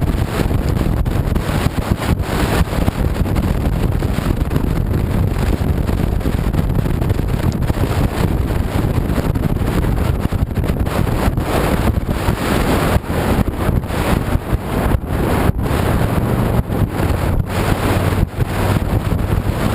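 Wind rushing and buffeting over the camera microphone on a moving 2007 Honda VTX 1300C motorcycle, with the bike's V-twin engine running steadily underneath.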